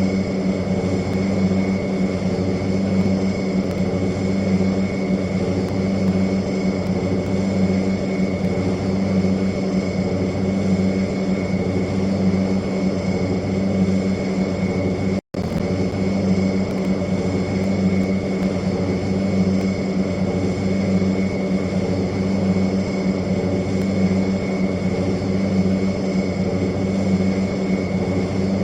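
A steady engine drone holding one constant pitch, broken by a brief moment of silence about halfway through.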